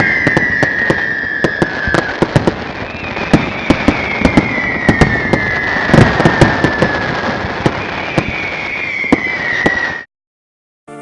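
Fireworks going off: rapid sharp bangs and crackling, over long whistling tones that slowly fall in pitch, three in a row. It all cuts off suddenly about ten seconds in.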